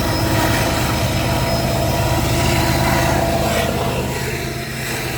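Steady low rumble of a CN freight train rolling past, easing slightly near the end.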